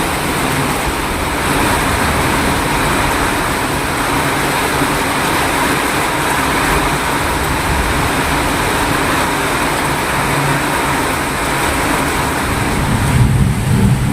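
Heavy rain pouring down in a steady, loud hiss. Near the end the hiss thins and a low rumble rises.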